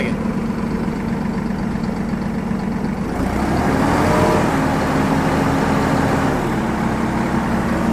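Diesel engine of a Massey Ferguson 4608 tractor, just started, idling with a grody sound. About three seconds in the engine speed rises and holds higher, then drops back to idle near the end.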